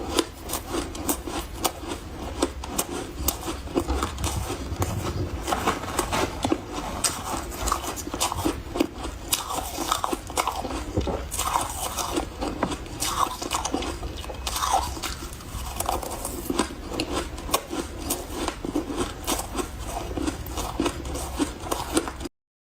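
Close-up crunching and chewing of refrozen powdery freezer ice in big bites, a dense run of soft, irregular crunches that stops abruptly near the end.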